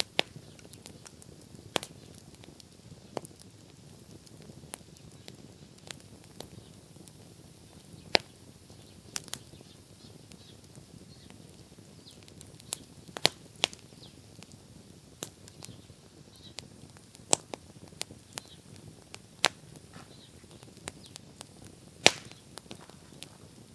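Wood bonfire crackling: sharp, irregular pops and snaps, a few much louder than the rest, over a faint low hiss.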